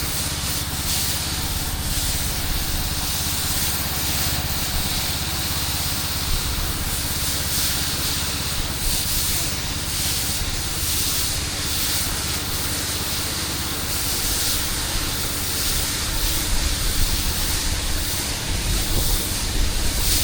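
High-pressure water spraying concrete from an engine-driven pressure washer: a steady hiss over the low hum of the engine. It grows a little louder and more uneven near the end.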